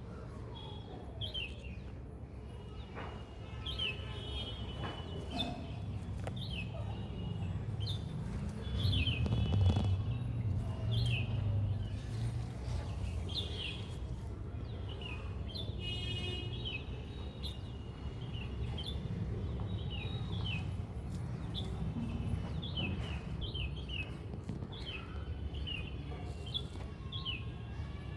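Small birds chirping: short, quick high chirps repeated again and again, over a steady low rumble that swells for a few seconds near the middle.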